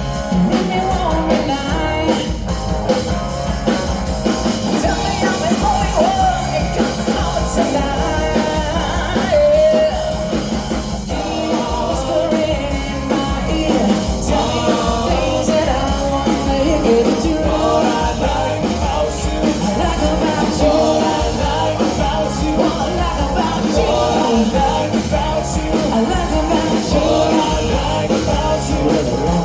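A live rock band playing a song, with singing over a steady beat.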